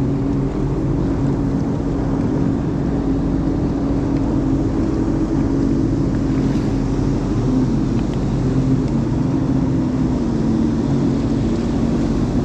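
Jet ski engine running at a steady speed, its pitch dipping slightly about two-thirds of the way through.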